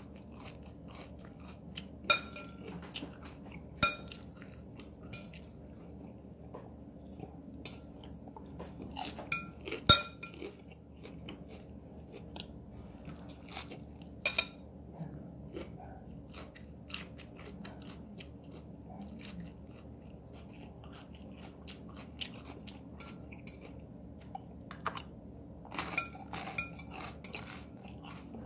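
A person chewing a mouthful of crunchy salad greens, with soft crunching and mouth sounds, and a few sharp clinks of a fork against the bowl, the loudest about ten seconds in.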